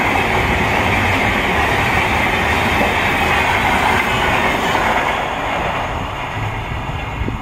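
Indian express train's coaches passing close by at speed: a steady rumble and wheel clatter over the rails. It eases off from about five seconds in as the last coach, the luggage-brake and generator car, goes by and the train draws away.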